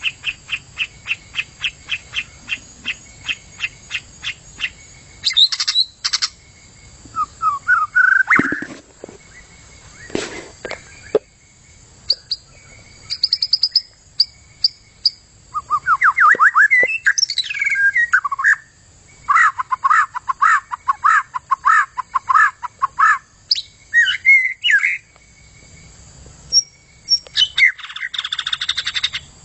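White-rumped shama (murai hutan) singing a long, varied song. It opens with a quick, even run of about twenty repeated notes, then moves through whistled phrases, sliding notes and fast chattering runs.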